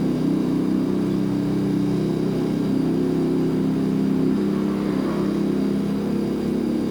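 Refrigerator compressor running with a steady hum of several low tones.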